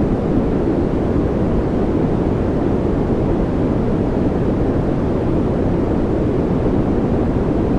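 Continuous white-noise track for focus and relaxation: a steady, deep hiss, weighted to the low end, with no change or breaks.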